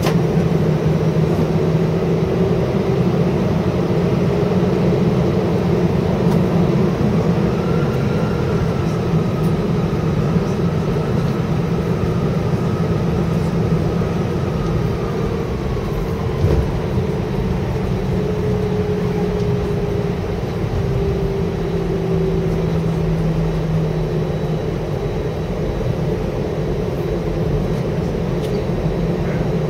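Airbus A320 cabin noise while taxiing to the gate: a steady rumble and hum of the idling jet engines and cabin air, with a faint higher whine that comes in and fades away around the middle.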